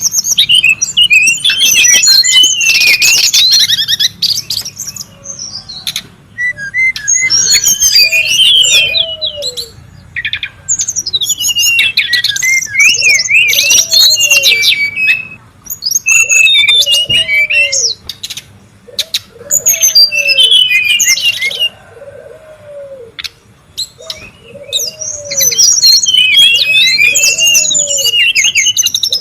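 Brown-chested jungle flycatcher singing: bouts of rapid, varied, high warbling phrases with short pauses between them. Beneath them, from about eight seconds in, a separate low note repeats about every second and a half.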